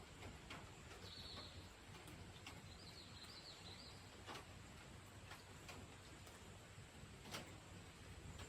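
Near silence: a faint low background rumble with scattered soft ticks, and a bird chirping briefly twice, about one and three seconds in.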